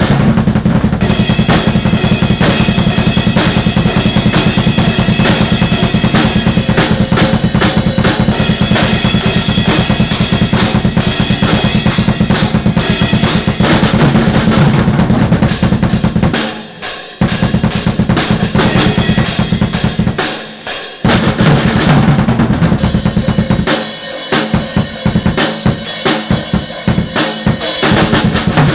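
Acoustic drum kit played loudly and continuously, with kick drum and snare in fast, dense patterns. The playing breaks off briefly twice past the middle and is a little lighter near the end.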